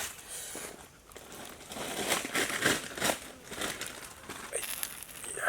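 Irregular rustling and clicking handling noises, a quick uneven run of short crackles that is busiest a couple of seconds in.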